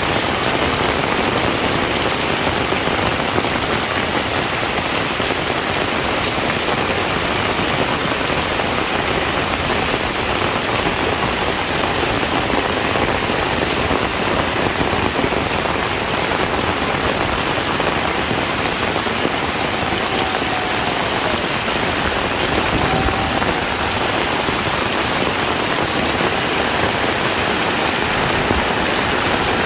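Heavy rain falling steadily, a dense, even patter of drops on surfaces with no let-up.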